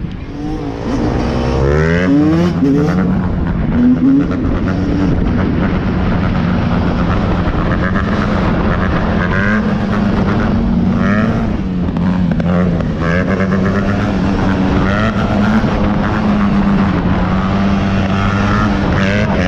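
Motorcycle engines revving up over the first few seconds, then one running on at a steady, slightly wavering speed.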